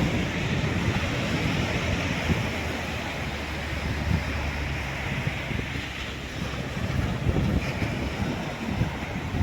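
Sea waves washing on a sandy shore, with wind buffeting the microphone in an uneven low rumble.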